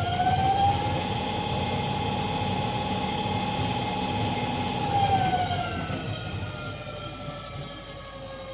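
Qiyu Dakar 72V 3000W electric motorcycle's electric motor spinning the rear wheel free at full throttle on its stock FarDriver controller: a high whine that finishes rising about a second in, holds steady at top speed, then falls away as the throttle is let off about five seconds in.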